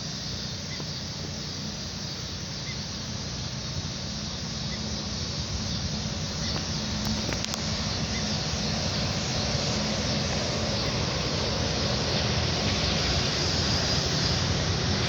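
A train's steady running noise, growing slowly louder.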